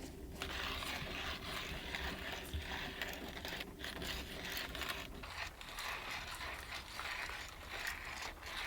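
Heavy rain pattering on the car's roof, a dense rapid ticking over a steady hiss.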